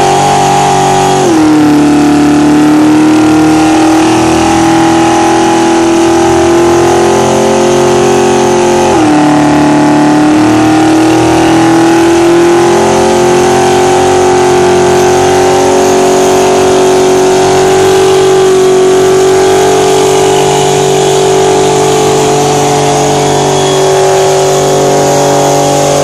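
Car engine held at high revs through a long burnout, loud and steady, its pitch dipping briefly about a second in and again about nine seconds in before climbing back and holding.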